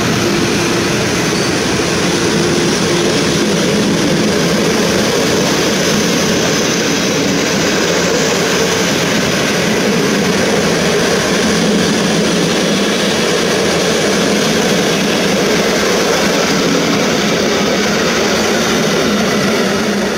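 Passenger coaches of a departing train rolling past on the rails: a steady, loud wheel-on-rail noise with a few faint held tones.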